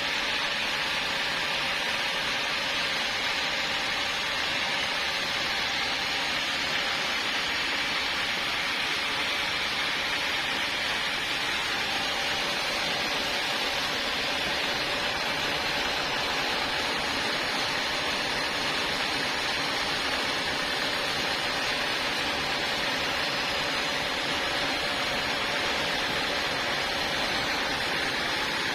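Sawmill saw running steadily, a constant mechanical hiss and hum that does not change.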